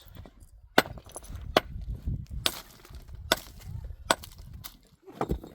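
Sharp knocks repeating at an even pace, about one every 0.8 s, over a low rumbling noise.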